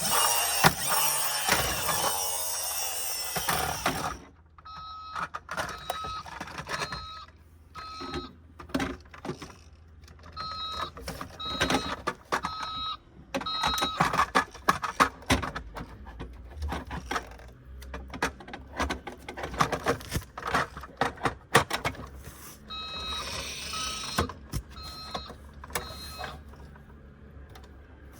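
Electronic sound effects from a toy lorry's small speaker. A loud, dense effect plays for the first four seconds and stops abruptly. Then come runs of short, even, evenly spaced electronic beeps of the kind the toy plays for reversing, over the clicks and rattles of the plastic truck being handled.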